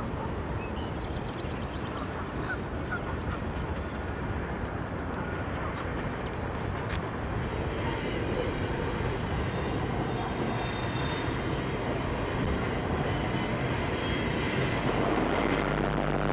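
Freight train rolling by, a steady rumble of steel wheels on rail, with geese honking a few times in the first seconds. Near the end a diesel locomotive's engine hum comes in and the sound grows louder as the locomotive draws close.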